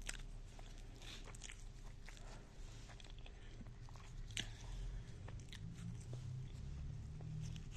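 A person chewing and eating potato and egg bhujia, with irregular small mouth clicks and smacks, one sharper click about four and a half seconds in.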